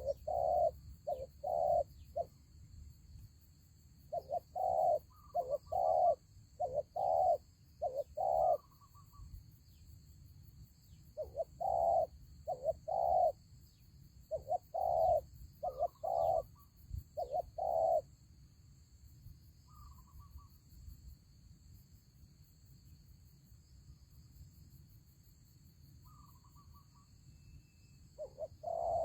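Spotted doves cooing: several phrases of low, repeated coos with pauses between them, then a lull of about ten seconds before cooing starts again near the end.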